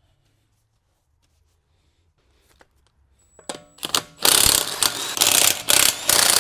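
Handheld power tool run in several short stop-start bursts on a car's fasteners, with a whining motor pitch, starting about three and a half seconds in after a few light clicks.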